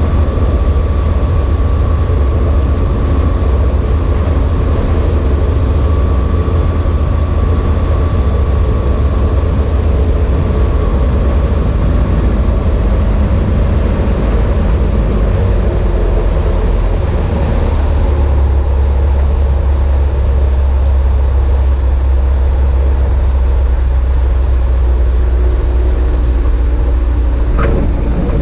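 Steady drone of the Evektor EuroStar EV-97 light aircraft's piston engine and propeller, with one short sharp click near the end.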